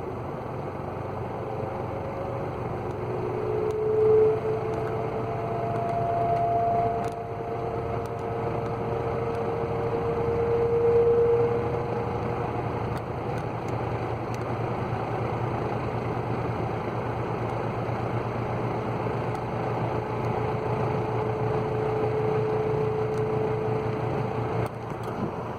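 Dayton box fan's electric motor and blades running up from a standstill: a steady low motor hum with faint whining tones that come and go, swelling in loudness about four and eleven seconds in.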